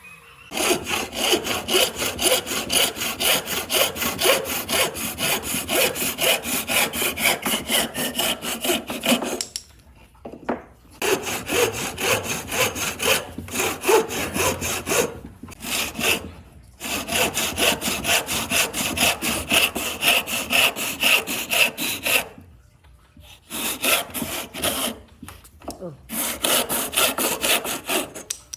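Hand saw cutting wood with quick, regular back-and-forth strokes, in several runs broken by short pauses.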